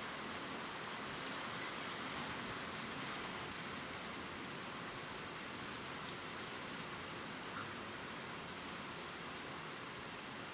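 Steady gentle rain falling on leaves, an even hiss with faint scattered drop ticks.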